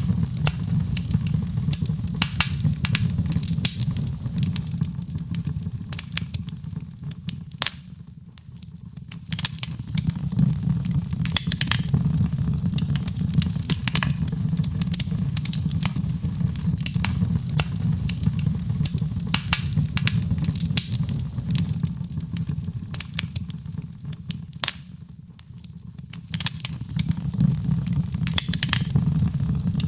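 Wood fire in a fireplace crackling and popping with sharp irregular snaps over a steady low rumble of the flames. It briefly dies down twice before building again.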